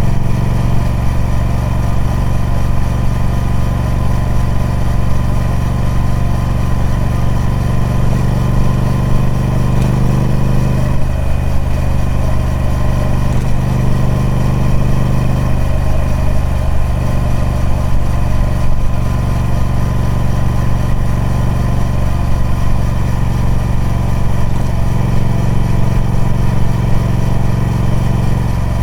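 Triumph Speed Twin 1200's 1200cc parallel-twin engine running through its stock exhaust at a steady engine speed, with slight changes in its note about a third and halfway through.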